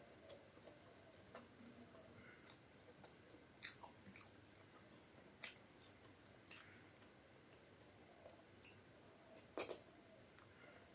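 Faint chewing and eating sounds of someone eating khichdi and chicken curry: soft, scattered mouth clicks and smacks, with one sharper click near the end.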